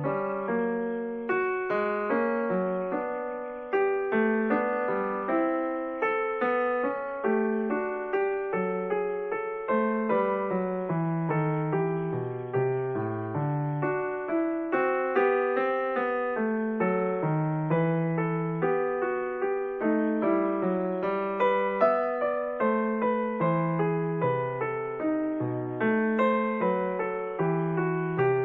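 Piano music: a steady run of struck notes, each fading away, over a moving bass line.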